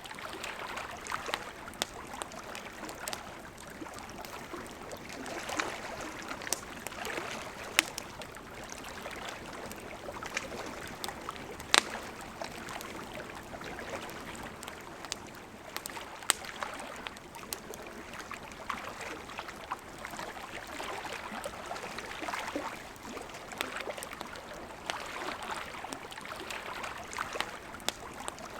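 A river flowing steadily with a campfire crackling over it, in many sharp pops and snaps; the loudest pop comes about twelve seconds in.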